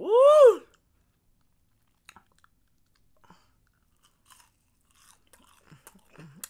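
A man's loud "Woo!" at the very start, rising then falling in pitch, followed by faint, scattered crunching and chewing as he bites into and eats a breaded fried shrimp.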